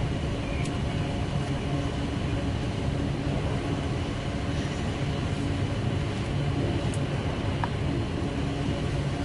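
Steady low rumble of a motor vehicle's engine running, with an even hiss over it.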